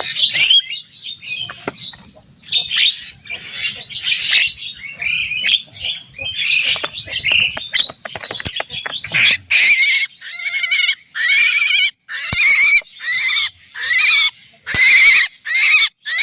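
Javan myna (jalak kebo) calling: harsh, scratchy chattering squawks, turning in the second half into a steady run of rasping calls at about two a second.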